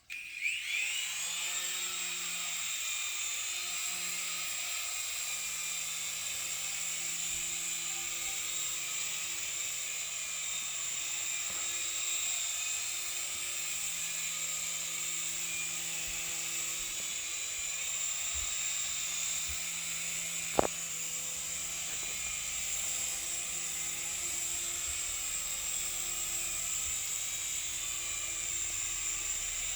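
Syma S107G mini coaxial toy helicopter taking off: its small electric motors spin up to a high whine within the first second, then hold a steady high whine with the low beat of the rotor blades beneath it in flight. A single sharp click about two-thirds of the way through.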